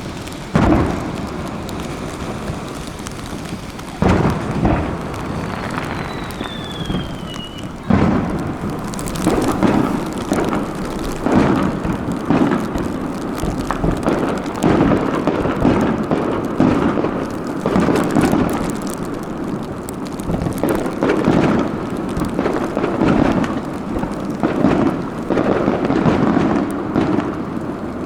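Fireworks display: sharp booms of aerial shells bursting about a second in, at four and at eight seconds, then a dense run of overlapping booms and crackling from about nine seconds on. A short falling whistle sounds between the first booms.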